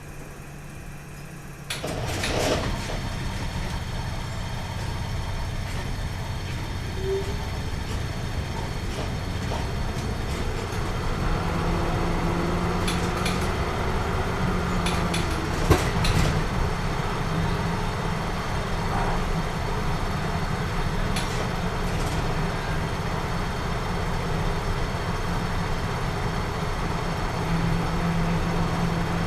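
A large vehicle's engine running with a steady low rumble and hum. The sound comes in suddenly about two seconds in, with a few short clicks and knocks along the way.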